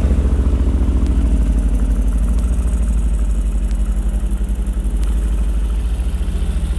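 Mercedes-AMG GT R's 4.0-litre twin-turbo V8 idling with a steady, low, pulsing exhaust note that eases off slightly over the first few seconds.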